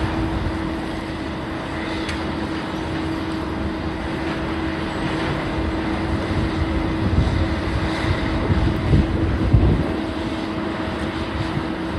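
Heavy demolition machinery running steadily: a constant engine hum over a low rumble, with heavier rumbles and a few louder knocks about seven to ten seconds in.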